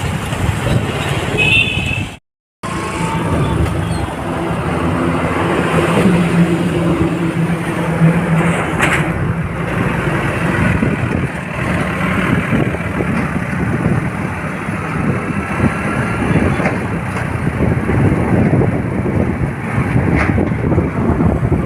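Motorcycle running on the road with steady road and traffic noise and a low engine hum. The sound cuts out to silence for a moment about two seconds in.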